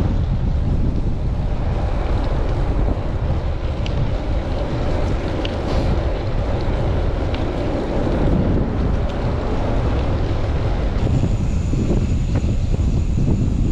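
Strong gusting wind buffeting a chest-mounted camera's microphone while riding a bicycle, a steady low rumble.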